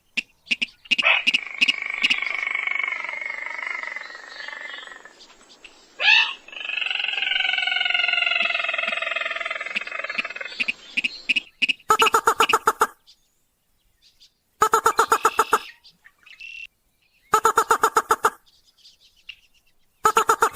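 Recorded crake calls played as a hunting lure. Two long, drawn-out whinnying calls come first, then short rapid rattling trills about every two and a half seconds.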